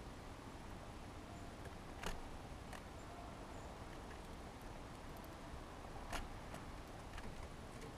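Small birds pecking and landing at a window feeder: a few sharp taps, the two loudest about two and six seconds in, over a faint steady hiss.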